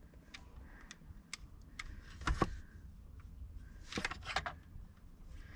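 Scattered small clicks and knocks of hands working on the shower pump unit and its wiring connectors, with a louder knock a little over two seconds in and a quick run of clicks about four seconds in.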